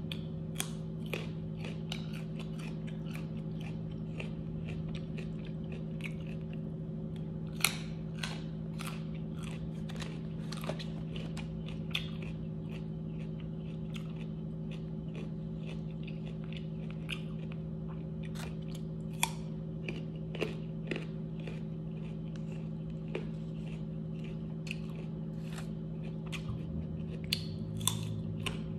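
A person biting and chewing crispy fried food close to the microphone, with many short, sharp crunches scattered throughout, over a steady low hum.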